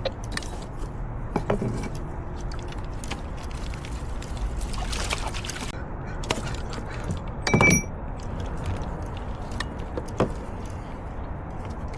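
Steady rush of river water around a kayak, with scattered small knocks and clicks and one louder clatter about seven and a half seconds in.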